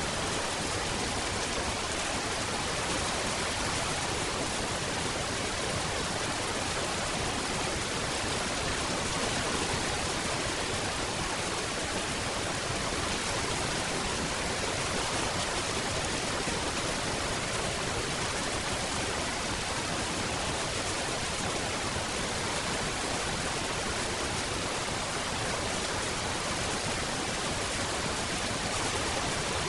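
Steady rain falling, a dense, even hiss with no single drops or changes standing out.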